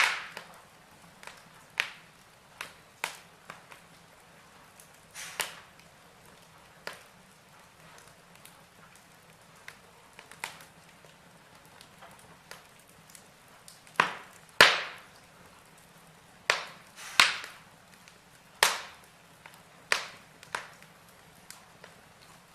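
Wood fire crackling in a fireplace: irregular sharp pops and snaps from the burning logs over a faint steady hiss, with a cluster of louder pops a little after the middle.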